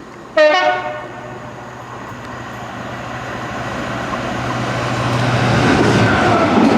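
Train horn giving one short, sharp blast, then an approaching train growing steadily louder with a steady low hum beneath the rail noise.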